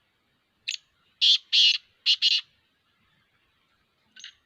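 Black francolin calling: one short note, then four louder harsh notes in two pairs within about a second and a half, and a faint note near the end.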